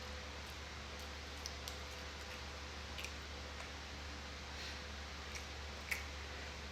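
Faint, scattered mouth clicks of someone chewing food, about six in all, the clearest near six seconds in, over a steady low hum.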